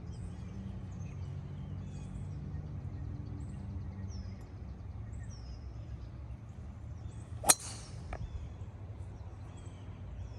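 Golf club striking a ball on a chip shot: one sharp crack about seven seconds in, then a faint click. The club skipped off the ground before meeting the ball, a chunked chip by the golfer's own account. Birds chirp faintly over a steady low outdoor rumble.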